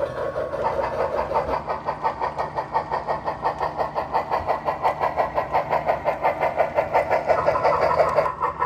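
HO scale model locomotive running on the layout, with a steady rapid pulsing of about seven beats a second.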